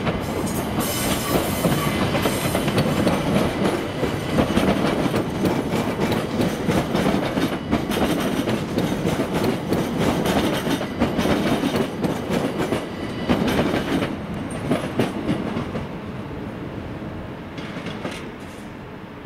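SNCB/NMBS class AM08 (Siemens Desiro ML) electric multiple unit running past over station pointwork, its wheels clattering rapidly over rail joints and switches. The clatter thins out and fades in the last few seconds as the train clears.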